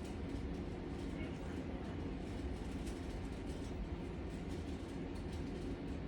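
A steady low rumbling hum with faint, scattered light clicks over it.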